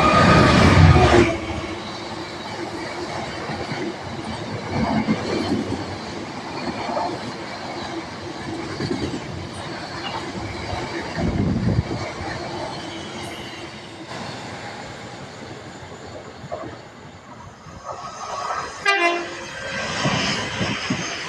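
A train passing through a railway station. A loud horn sounds at the start, then wheels rumble and click over the rails, with a falling whine near the end.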